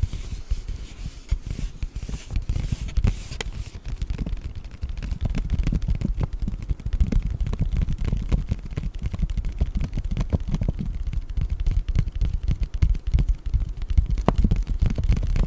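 Paper bag crinkled and rubbed close against the microphone: a muffled low rumbling full of quick crackles and taps.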